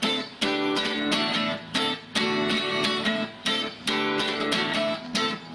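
Guitar strumming chords, each sharp stroke ringing briefly before the next, with short breaks between some strokes.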